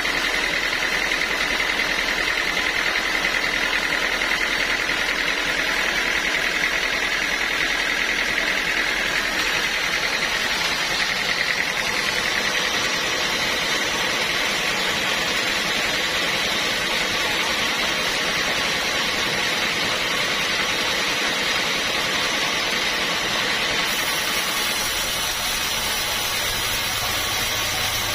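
Sawmill saw running steadily, a continuous noisy drone with a faint high whine over it.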